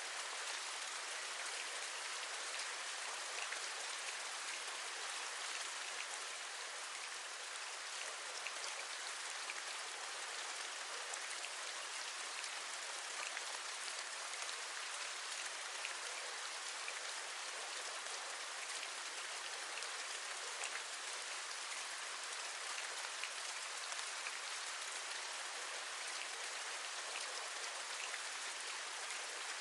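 Steady rain, an even hiss with scattered single drops tapping.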